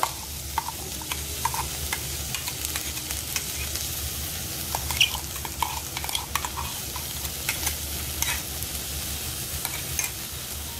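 Sliced okra sizzling in oil in a steel kadai: a steady hiss with scattered crackles and pops. A steel spoon scrapes ground paste out of a mixer jar onto the okra near the start.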